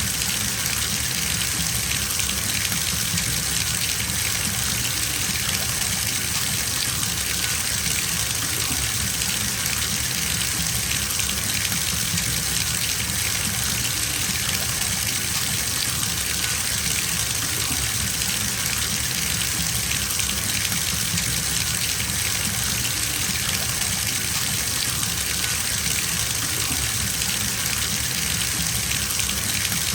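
Bathtub filling: water pouring steadily from the tap into the tub, an even rushing splash with no change.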